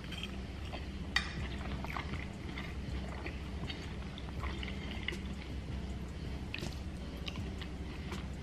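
Close-miked chewing and wet mouth sounds of a man eating soft pot roast, cabbage and cornbread, with light clicks of a metal fork on a glass dish, the sharpest about a second in. A steady low hum runs underneath.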